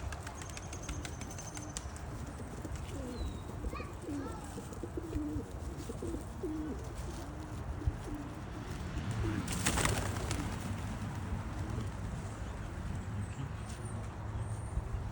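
Domestic pigeons cooing, many short low coos one after another, with a brief rush of noise about ten seconds in.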